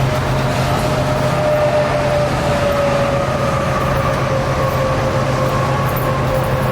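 Old Dodge D500 flatbed truck under way, a steady engine and road drone with a whine running through it that slowly falls in pitch.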